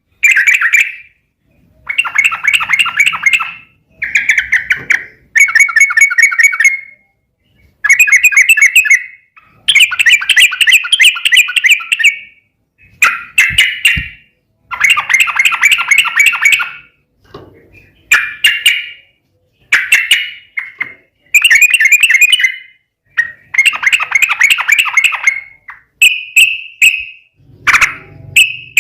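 Yellow-vented bulbul (trucukan) singing loud, bubbly, chattering song phrases, one after another with short pauses, each lasting a second or two.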